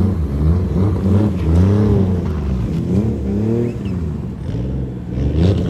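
Car engine revving, its pitch rising and falling over and over.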